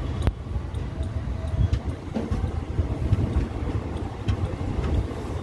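Indian Railways passenger coach rolling slowly along the track, a steady low rumble with wind buffeting the microphone held out at the door. There is a sharp click about a quarter second in and a few fainter ticks later.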